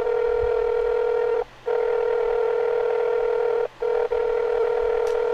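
Telephone line tone while the call is being transferred: a steady buzzy tone, broken by brief gaps about every two seconds.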